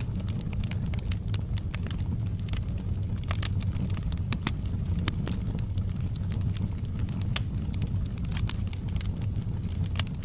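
Wood fire of large logs burning in a fireplace: a steady low roar of flames with frequent sharp crackles and pops scattered irregularly throughout.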